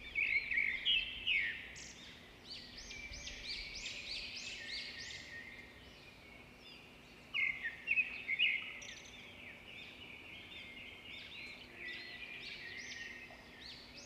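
Several budgies chirping and warbling together, a steady chatter of short rising and falling calls, with louder bursts of chirping in the first couple of seconds and again about halfway through.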